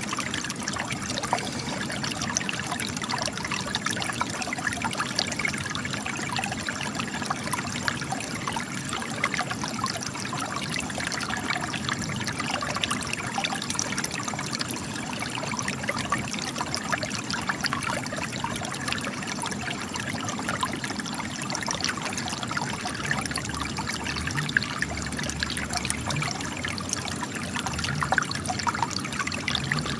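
Spring water flowing out of cracks in rocks, a steady trickle with many small splashes and drips.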